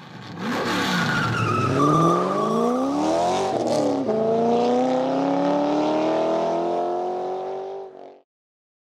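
Car engine accelerating, its pitch climbing, dropping suddenly about four seconds in, then climbing slowly again before it cuts off about eight seconds in.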